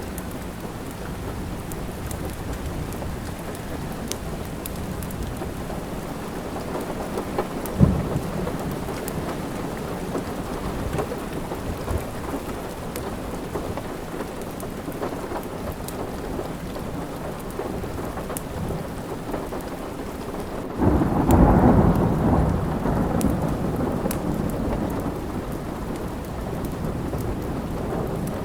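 Steady rain, with a sudden roll of thunder about two-thirds of the way through that fades slowly over several seconds. A sharp crack comes about a quarter of the way in, and small crackles from a fireplace are scattered throughout.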